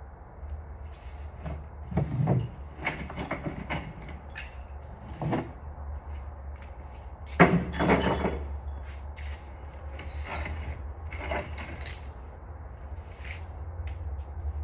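Scattered clinks, knocks and clatters of metal tools and engine parts being handled during engine teardown work, over a steady low hum. The loudest clatter comes about seven and a half seconds in.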